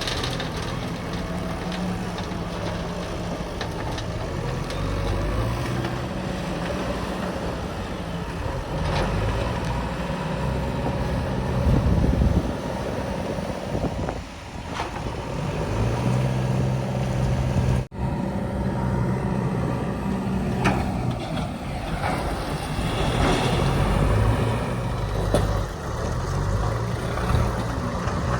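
Diesel engines of backhoe loaders and trucks running steadily while working, swelling in level about twelve seconds in and again later. There is a sudden brief dropout near eighteen seconds.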